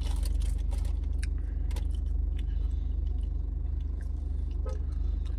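Steady low hum of a car's idling engine heard from inside the cabin, with scattered small clicks and rustles of hands pulling apart a piece of barbecue chicken.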